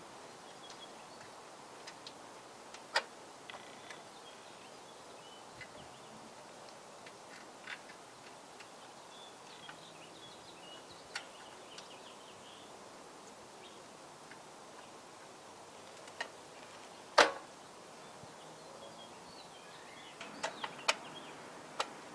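Scattered sharp clicks and knocks over a quiet background, the loudest about 17 seconds in and a quick run of them near the end, with faint high chirps in between.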